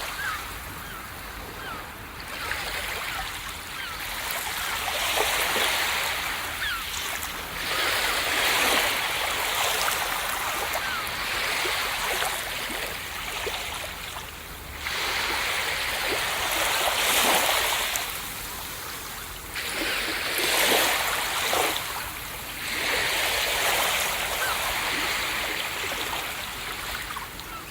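Ocean waves breaking on a beach: a continuous hiss of surf that swells as each wave crashes and eases as it washes back, every few seconds.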